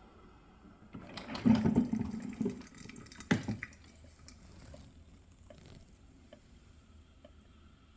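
Water splashing and gurgling for about two and a half seconds, starting about a second in, mixed with clicks and ending in a sharp knock; a few faint ticks follow.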